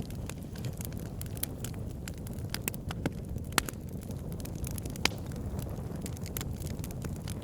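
Campfire crackling, with irregular sharp pops from the burning wood, two of them louder about three and a half and five seconds in, over a steady low rumble.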